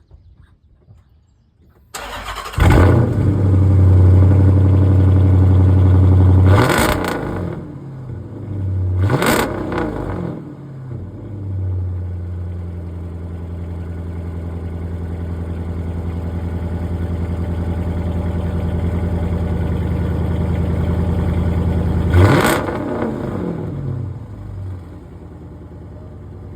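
Straight-piped 2012 Dodge Charger R/T 5.7 HEMI V8, running cats only with the resonator and muffler deleted, droning loud and low. It starts suddenly a couple of seconds in and breaks into brief sharp rev changes a few times. In between it holds a long steady drone that slowly builds, then fades near the end.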